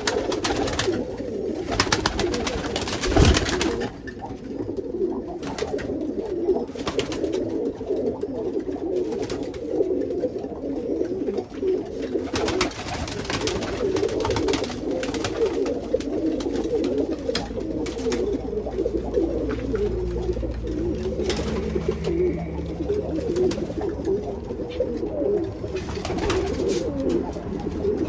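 Many domestic pigeons cooing at once in a continuous, overlapping chorus, with occasional short rustles and clicks.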